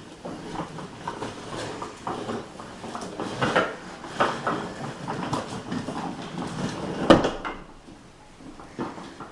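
A child's ride-on toy tractor clattering and knocking unevenly as it is driven, with one sharp knock about seven seconds in.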